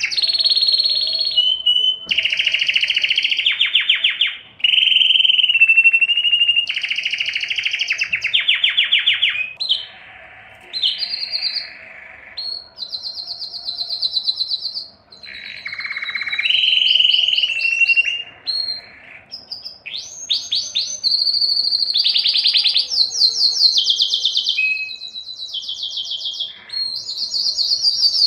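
Canary singing a long, continuous song: a chain of rapid trills and rolls, each held for a second or two before jumping to a new pitch, with a few short pauses.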